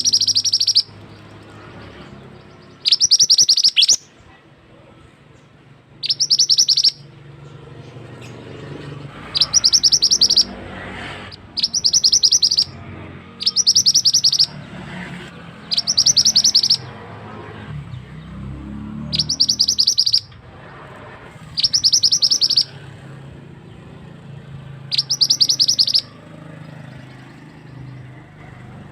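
A mantenan songbird singing about ten short, rapid, high-pitched bursts of repeated notes, one every two to three seconds, over the steady sound of running water.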